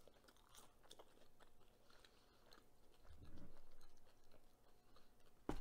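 Faint close-up chewing of burger and thick-cut chips, with small wet mouth clicks. A short low hum comes about three seconds in, and a single sharp knock comes near the end.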